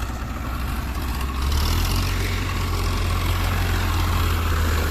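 Tractor engine running steadily with a deep, low hum that grows louder about a second and a half in.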